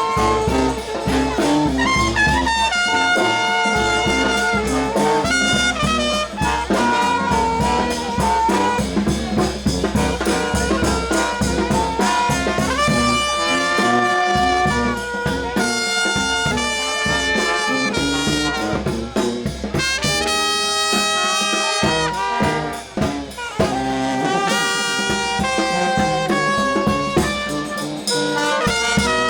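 New Orleans brass band playing a second-line tune, with held horn lines over a steady low beat.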